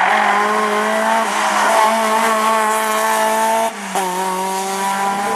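Rally car engine pulled hard at high revs, its note holding and slowly rising. A short break about three and a half seconds in, like a gear change, after which the note drops slightly and climbs again.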